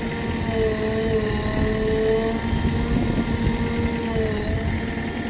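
Heavy diesel engine running steadily, from the stuck Shaktiman truck or the JCB 3DX backhoe loader pulling it out, its pitch shifting a little twice.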